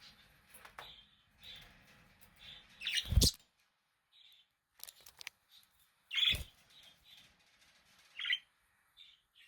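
Budgerigars chirping in short, scattered calls, with two louder, sharper sounds about three and six seconds in.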